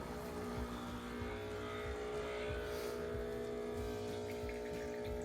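Breville Barista Express's vibratory water pump humming steadily as an espresso shot is pulled, in its pre-infusion stage.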